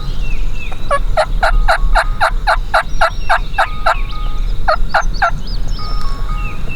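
Turkey yelping: a run of about a dozen yelps, roughly four a second, then a short pause and three more yelps.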